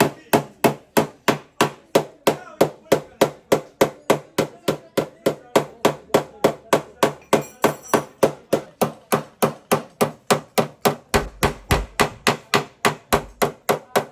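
Hand hammer beating out dented car body sheet metal, at about three even blows a second. This is panel-beating on the damaged rear of a Suzuki Wagon R.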